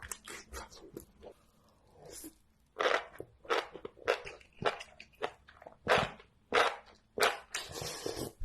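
Crunchy food being bitten and chewed close to the microphone, in ASMR eating style. After a quieter start, sharp crunches come every half-second or so, with a longer stretch of crunching near the end.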